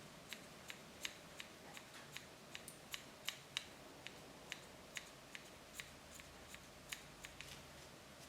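Grooming shears snipping a dog's hair close to its face: a run of quick, sharp snips at an uneven pace, about two or three a second.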